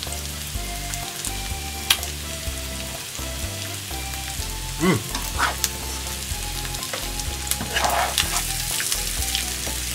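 Sliced potatoes, bacon and onion sizzling as they fry in a pan, with a spatula stirring and turning them and now and then scraping the pan. Light background music plays underneath.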